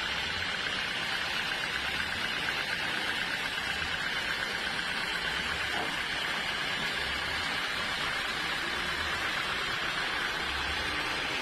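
Sawmill machinery running steadily, a continuous noisy drone with a low rumble underneath.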